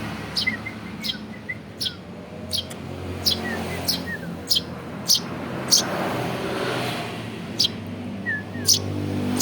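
Eurasian tree sparrow chick chirping over and over, one short, sharp, high chirp roughly every two-thirds of a second, with a pause of about two seconds past the middle. A steady low hum runs underneath.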